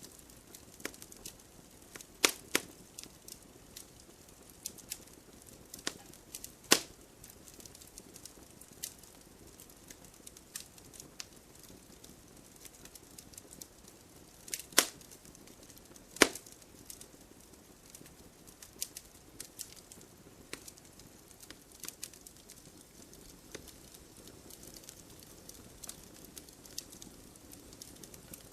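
Wood fire in a fireplace crackling: irregular sharp pops and snaps of burning logs over a soft hiss, with four pops clearly louder than the rest.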